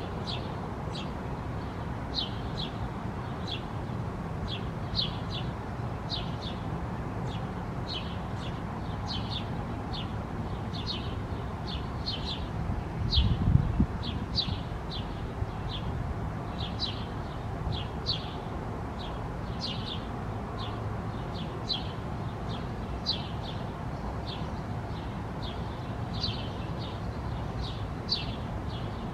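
A bird's short, high chirps repeated nearly twice a second, a little unevenly, over a steady low background hum, with a brief low rumble about halfway through.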